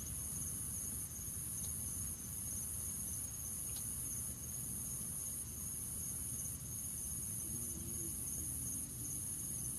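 Crickets chirping: a steady, high-pitched trill that pulses about once a second, over a low continuous rumble.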